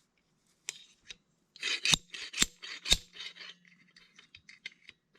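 Metal tapping and scraping on a hydraulic cylinder piston being worked loose from its pin. A few light ticks, then three sharp strikes about half a second apart, with rasping metal scrapes between and after them.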